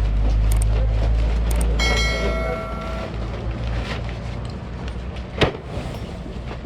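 A heavy demolition machine's diesel engine running with a low drone while it pushes against a wall. About two seconds in, a horn sounds for just over a second, and later a single sharp knock stands out.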